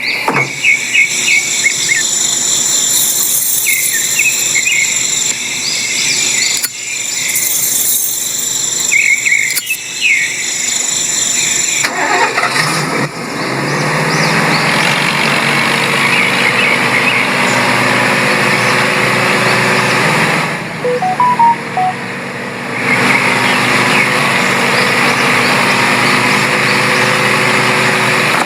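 An engine running steadily, which comes in about halfway through and dips briefly a few seconds before the end. Before it there are high, thin tones and short chirps.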